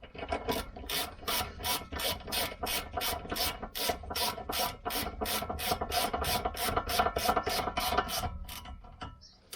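Socket ratchet clicking steadily at about three or four clicks a second as it winds in the rear brake caliper carrier bolts, then stopping near the end.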